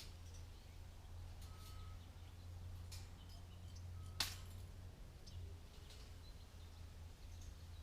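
Galvanized wire being worked by hand to tie a cattle fence panel to a T-post: faint scattered clicks, with one sharp click about four seconds in, over a steady low hum.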